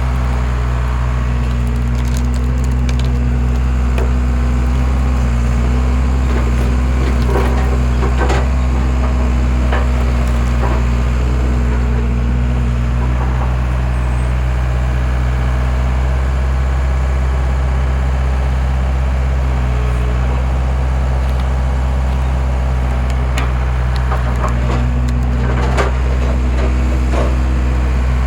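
Skid steer engine running steadily as its homemade splitter drives through logs. The wood cracks and splinters in clusters, once about seven to eleven seconds in and again near the end.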